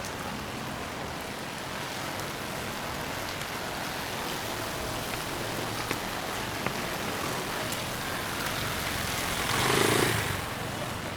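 Steady rain falling, with a car passing on the wet road near the end: its tyre hiss swells to a peak and fades away.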